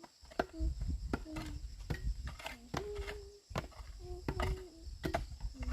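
Repeated sharp knocks, about two a second, of hand tools striking earth and stone during digging, with short pitched sounds between the strikes. A steady high insect drone runs underneath.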